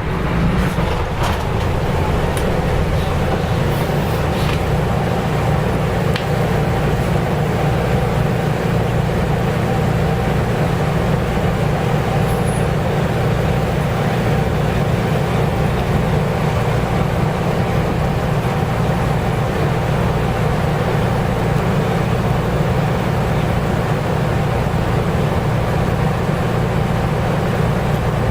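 Nissan Diesel U-UA440LSN route bus running with its diesel engine at a steady pitch, cruising without gear changes, a few light clicks in the first few seconds.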